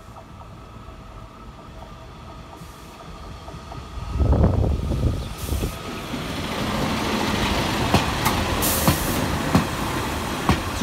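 Northern Class 144 Pacer, a two-axle diesel railbus, approaching and passing across a level crossing. Its running noise grows sharply loud about four seconds in, then a steady rumble of wheels on rail with sharp clicks as the wheels go over the rail joints.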